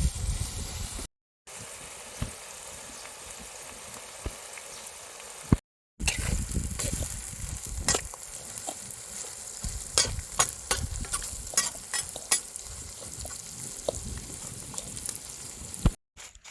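Green grasshoppers stir-frying in a pan, sizzling steadily, while a utensil clicks and scrapes against the pan; the clicks come thicker in the second half. The sizzle is broken twice by brief silences.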